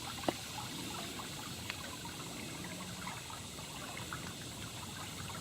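Water trickling and splashing in a steady stream with many small droplet ticks: floodwater draining from an oxbow lake back down into Buffalo Bayou.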